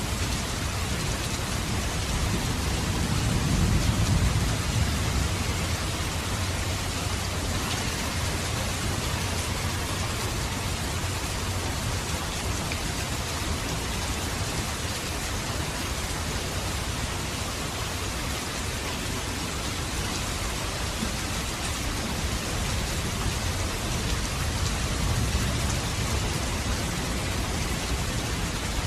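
Steady rain falling on surfaces, an even hiss. A low rumble swells in the bass a few seconds in, and more faintly near the end.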